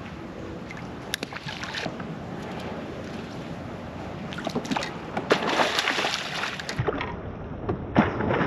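Water lapping and sloshing around a kayak. In the second half there are many small splashes and knocks, growing louder.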